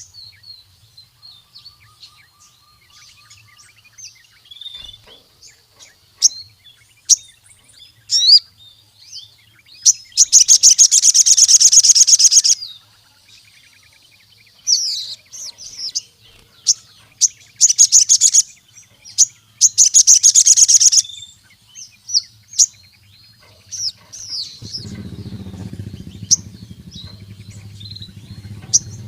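A crimson sunbird (sogon) singing: sharp, high chirps broken by several loud, rapid trills, each lasting one to two seconds. A low hum runs under the last few seconds.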